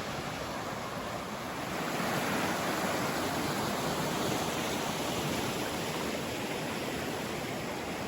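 A creek rushing and splashing over rocks, a steady hiss of running water that swells slightly about two seconds in.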